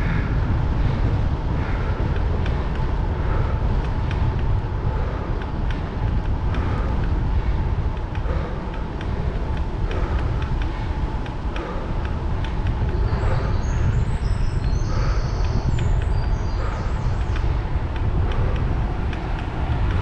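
Strong wind buffeting the microphone of a bicycle camera while riding, making a loud, steady low rumble.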